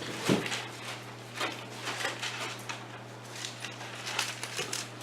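Bible pages being turned and rustled as a group looks up a passage, in many short rustles, with a soft thump about a third of a second in over a steady low hum.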